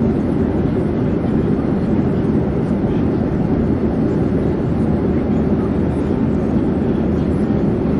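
Steady drone of an airplane in flight: even engine and air noise, strongest in the low range, with no change in level.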